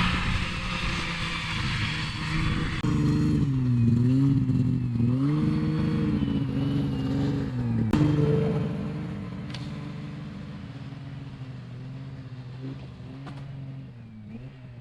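2000 Yamaha PZ500 Phazer snowmobile engine running as it is ridden, its revs dropping and climbing again twice in the middle, then growing fainter over the last few seconds as the sled gets farther off.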